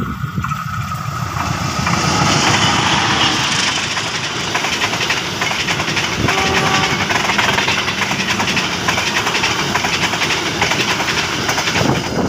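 Passenger train passing close by: a CC 201 diesel-electric locomotive comes up and goes by, then a long rake of coaches rolls past with a steady loud rush of wheels on rails. The sound swells about two seconds in as the train draws level.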